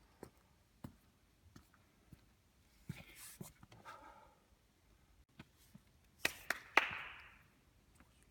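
Basketball practice: scattered sharp knocks of a ball bouncing, with a short swish about three seconds in and a louder cluster of hits with a rushing swish a little past six seconds in.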